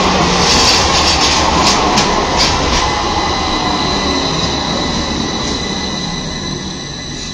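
A tram on the Istanbul T1 line running on its rails: a steady rumble and hiss of wheels on track with a high, steady whine over it. It gets quieter over the last couple of seconds.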